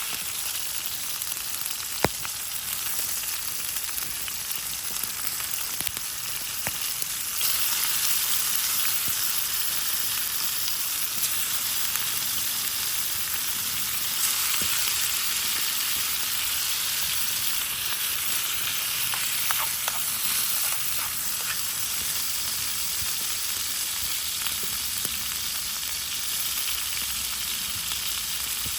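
Food sizzling and frying in a pan, a steady hiss that grows louder about seven seconds in, with a few light clicks and pops.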